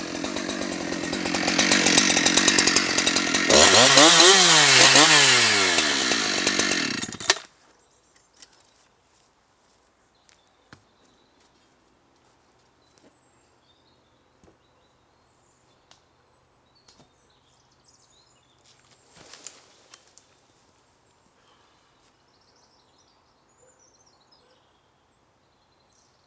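Two-stroke chainsaw cutting into a wind-thrown tree, its engine pitch rising and falling as it works the cut, then stopping abruptly about seven seconds in with a sharp crack. After that only a few faint knocks and a brief rustle. The cut went wrong because the tree's compression side was misread.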